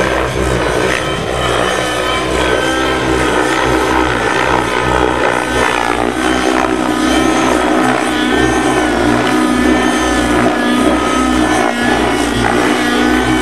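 Radio-controlled model helicopter running, its engine and rotor making a steady, loud drone with the pitch wavering slightly up and down.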